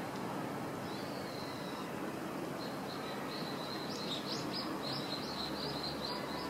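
High, thin calls of a common kingfisher: a short drawn note, then a rapid run of short chirps at about four a second, over steady background noise.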